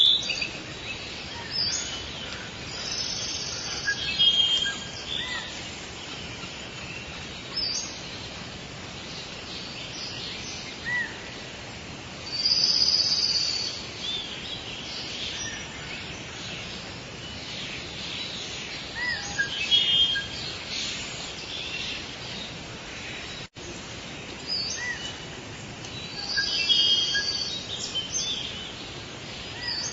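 Forest ambience of wild birds calling and singing: short chirps, whistles and trills come and go over a steady background hiss, with louder bursts of song now and then. The sound drops out for an instant about two-thirds of the way through.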